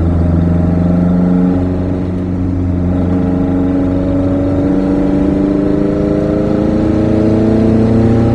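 Lada VAZ 2103's 1600 cc four-cylinder engine on twin Weber DCOE 40 carburettors, heard from inside the cabin while driving. The engine note dips briefly about two seconds in, then its pitch climbs steadily as the car accelerates.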